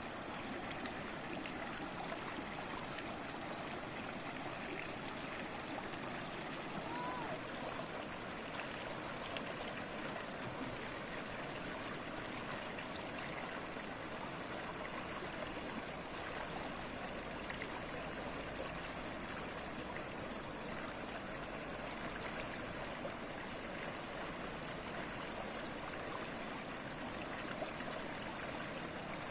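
A stream babbling and trickling steadily, an even rush of flowing water.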